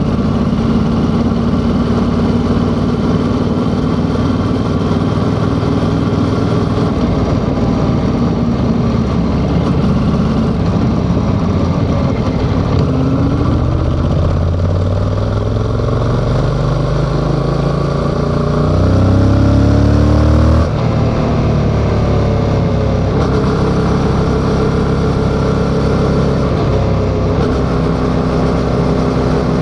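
Yamaha XSR700's parallel-twin engine running under way. About halfway through, the revs climb steadily for several seconds and grow louder, then drop off sharply, and the engine settles back to steady running.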